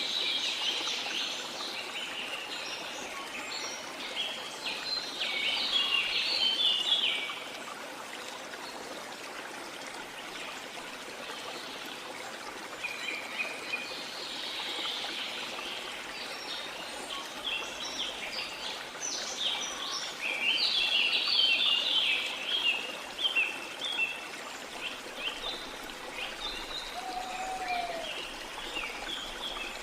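Steady rush of a waterfall in a tropical rainforest, with birds calling and chirping over it in clusters of quick high notes that come and go, busiest twice, around a quarter of the way in and again past the middle.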